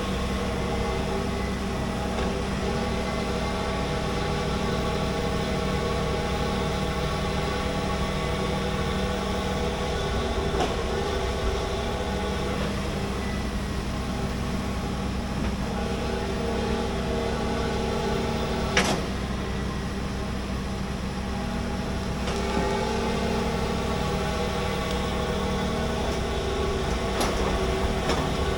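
Large hydraulic excavator's diesel engine running steadily under work, with a sharp knock about two-thirds of the way through and a couple of fainter clicks.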